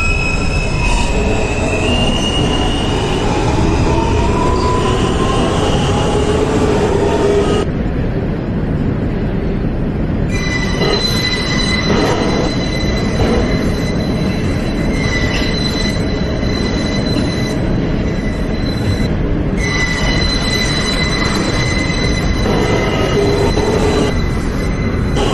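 A New York subway train running between stations, its steady rumble overlaid by high-pitched wheel squeal. Squeal tones glide upward in the first several seconds, then sit at a steady pitch, cutting in and out several times.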